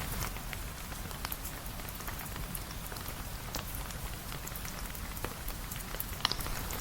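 Steady rain with scattered drops ticking, and one sharper tick near the end.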